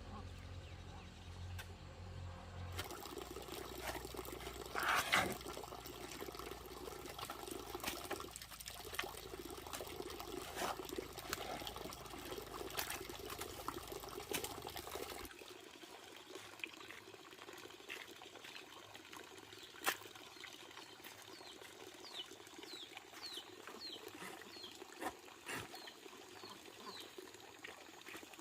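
Water running and trickling, with scattered small clicks. About halfway through this gives way to a quieter background, with a run of short, high, falling chirps a few seconds later.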